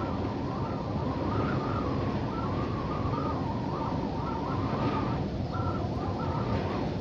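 Continuous desert wind sound, a steady rushing haze whose pitch wavers up and down as it gusts.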